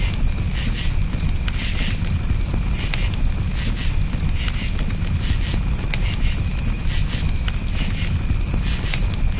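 Campfire crackling with scattered sharp pops over a low rumble, with crickets chirping in short pulsed trills about twice a second.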